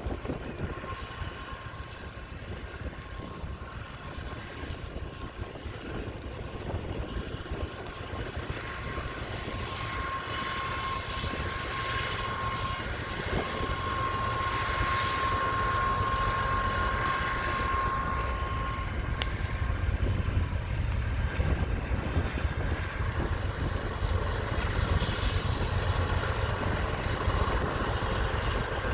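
Norfolk Southern freight train creeping past: a steady low diesel rumble and rolling noise that grows louder, with a thin steady high whine for about the first two-thirds.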